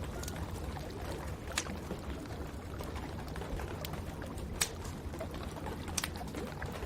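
Wood fire crackling in a fireplace, with many small crackles and a few sharp pops, the loudest about two-thirds of the way through, over a steady rush of rain.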